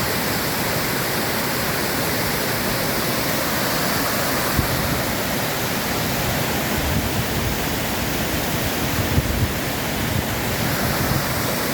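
Two-tier waterfall: water pouring and splashing in a steady, even rush, with a few brief low thumps in the middle.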